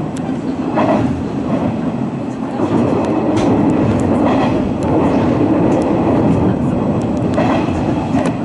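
Electric commuter train running at speed, heard from inside the passenger car: a steady rumble of wheels and running gear on the track with a few faint clicks.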